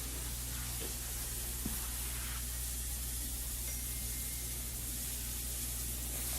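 Steady hiss with a low electrical hum underneath, a few faint ticks, and no distinct event: the background noise of a room.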